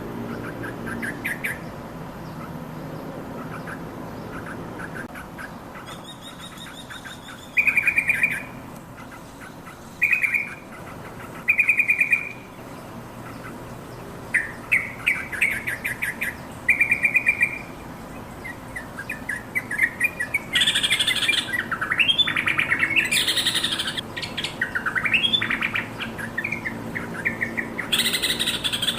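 Yellow-vented bulbul calling: short, loud bursts of rapid chattering notes, three times early on, then longer runs. About two-thirds of the way in it goes over to a fuller, bubbly song with rising and falling notes. A low steady hum sits beneath.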